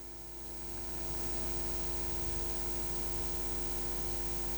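Steady electrical mains hum, growing a little louder over the first second.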